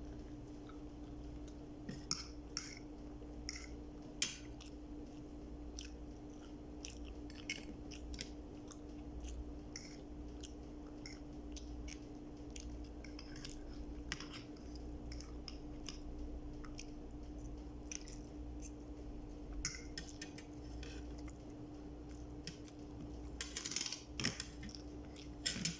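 A person chewing and biting food close to the microphone, with scattered sharp clicks and crunches and a busier cluster near the end. A steady low hum runs underneath.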